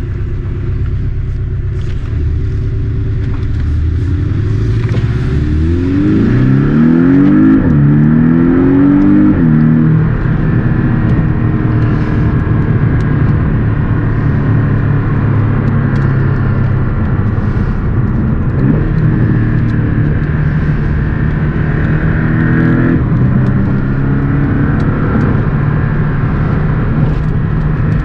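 Porsche 718 Boxster S's turbocharged flat-four engine accelerating through a few quick PDK upshifts, its pitch climbing and dropping back at each shift, then settling into a steady engine note.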